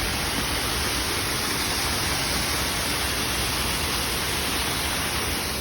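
The Rhine Falls, a large river waterfall, rushing: a steady, even noise that holds unbroken.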